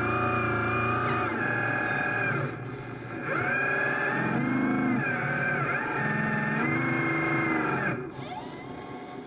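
Electric motors and gear drives of RC construction machinery whining, the pitch holding, then sliding up and down as the machines speed up and slow, with two brief lulls.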